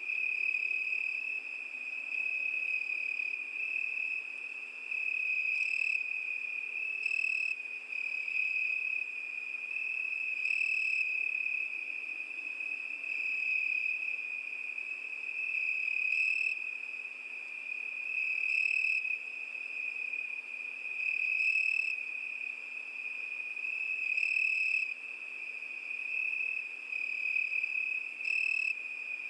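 Crickets singing: a continuous, steady high-pitched trill, with brief louder pulses every few seconds.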